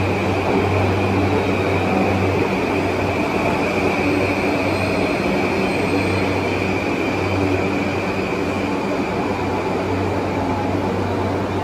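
Yamanote Line E235-series electric commuter train pulling into the platform and slowing toward a stop: a steady rumble of wheels and motors with a low hum and a high whine.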